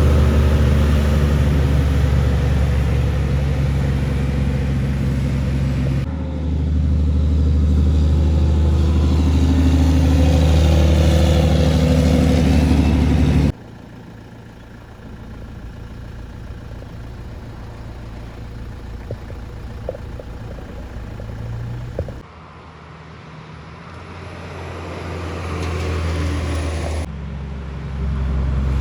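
Heavy trucks' diesel engines passing on a highway, in short clips joined by abrupt cuts. A loud, low engine drone fills the first half, then it drops suddenly to quieter engine and road noise that rises again near the end.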